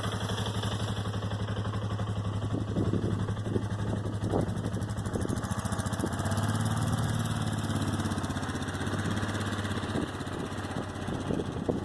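Four-wheeler (ATV) engine idling steadily, getting a little louder about halfway through, with a few light knocks near the start and near the end.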